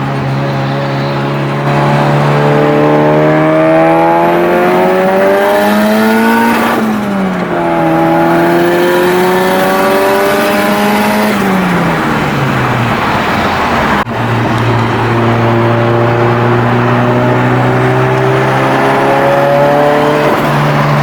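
Car engine accelerating hard through the gears. Its pitch climbs, drops sharply at a gear change, then climbs again before the driver eases off. A single sharp click follows, and then the engine pulls steadily upward once more.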